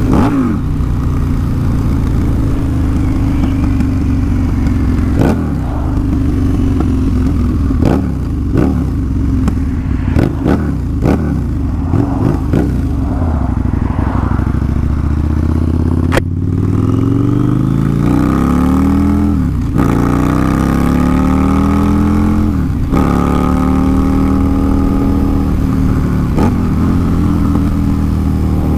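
Harley-Davidson V-Rod's V-twin engine being ridden hard, revving up through the gears. In the second half the engine note climbs and falls back at each upshift, several times in a row.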